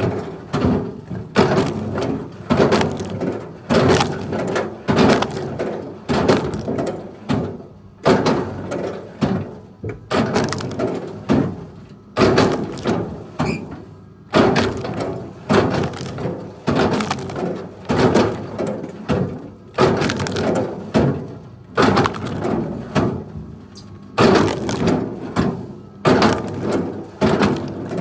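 Wood cracking and splintering in a rapid series of heavy impacts, about one to two a second, each with a short crunching decay.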